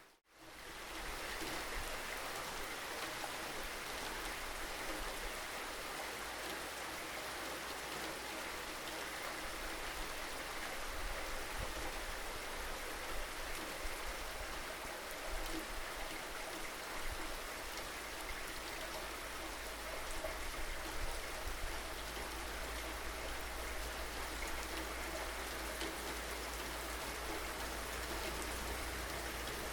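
Steady rainfall with drops pattering. It cuts out for a moment right at the start, then continues evenly.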